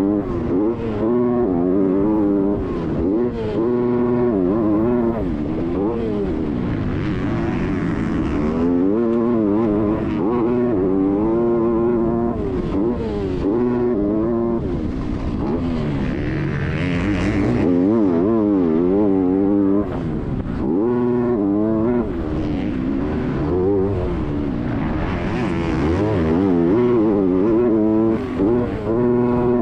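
Motocross motorcycle engine racing, its pitch repeatedly climbing as it revs up through the gears, then dropping back off the throttle.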